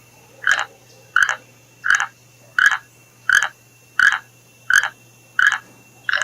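An animal calling over and over in short, evenly spaced calls, about one every 0.7 seconds.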